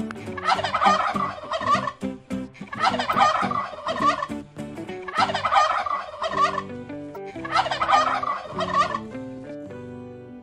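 Domestic turkey tom gobbling: four gobbles, each about a second and a half long and roughly a second apart.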